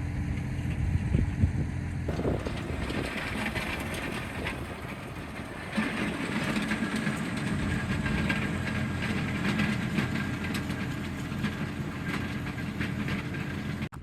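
John Deere tractor engine running steadily under a dense rattling clatter, growing louder about two seconds in and again about six seconds in.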